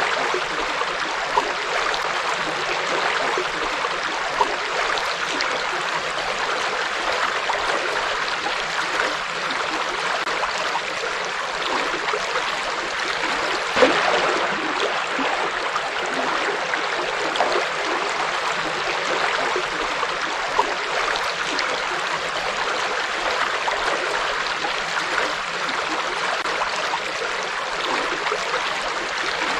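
Forest river flowing steadily over rocks, an even rush of water with little splashes and gurgles; one slightly louder splash about fourteen seconds in.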